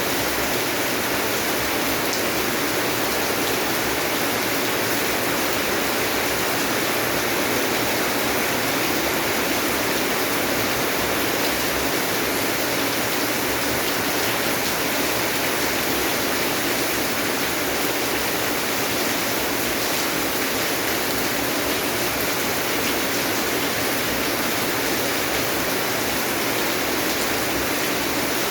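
Steady rain falling, an even hiss with no separate drops standing out and no change in level.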